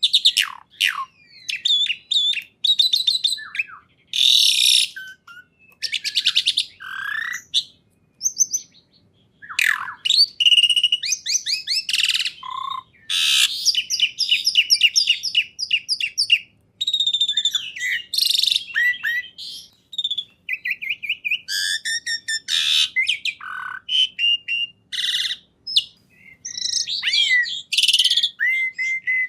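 A songbird singing a loud, varied song of rapid chirps, trills and sweeping whistles, in phrases of a second or more separated by brief pauses.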